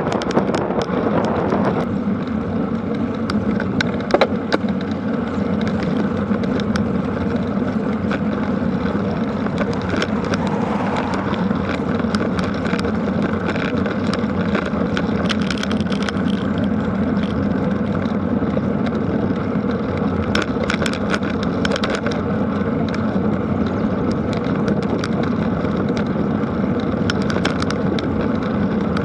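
Steady rush of wind on an action camera's microphone and tyre noise from a bicycle being ridden, with scattered small clicks and rattles.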